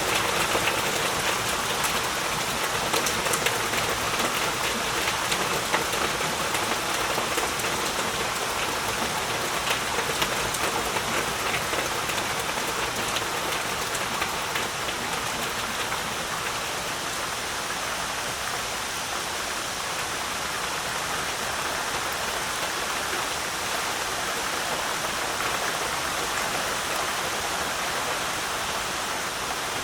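Heavy rain falling steadily, with many separate drop hits heard in the first half. About halfway through it turns into a smoother, even hiss.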